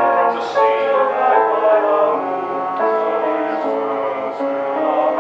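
Several classically trained voices singing sustained notes together in harmony.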